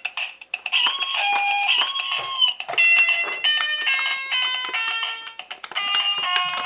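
Battery-operated electronic toy playing a simple beeping tune: short steady tones stepping from pitch to pitch, with sharp clicks in between.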